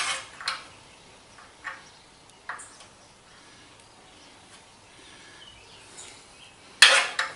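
Metal clinks and knocks of a steel bracket and hand tools being handled while the bracket is fitted to a milling machine: a sharp clank at the start, a few light taps, a quiet stretch, then a louder cluster of clanks near the end.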